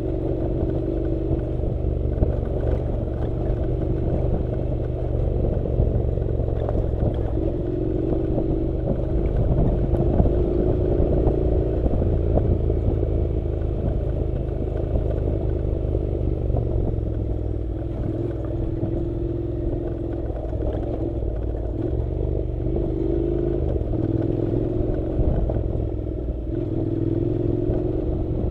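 Honda NC700's parallel-twin engine running steadily under way on a dirt road, its note rising and falling a little with the throttle.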